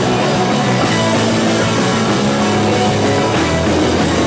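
Live rock band playing loud, full-band music with guitar and drums and no vocals.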